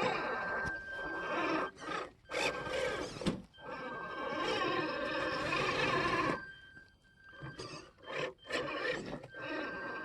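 Electric motor and gearbox of an RC scale truck running, with a steady high whine over rough driving noise, cutting out and starting again several times.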